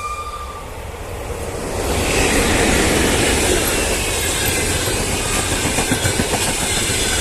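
The tail of a locomotive horn blast cuts off about half a second in. From about two seconds the passenger coaches pass close by, with a loud steady rush of wheels clattering over the rail joints and a faint high squeal from the wheels.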